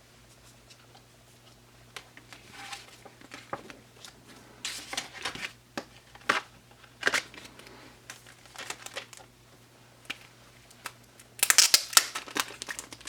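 Intermittent crinkling and rustling of packaging as photocards and stickers are handled. The rustles come in short bursts, with the loudest flurry near the end.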